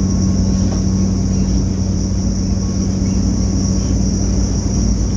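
Class 180 Adelante's underfloor Cummins diesel engine running steadily, heard from inside the passenger saloon directly above it: a low, even drone with a steady high-pitched whine over it.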